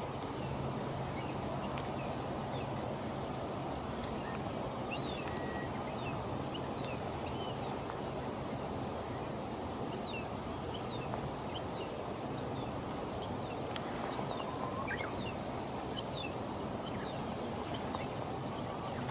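Steady low background rumble with many faint, short, high bird chirps scattered through it.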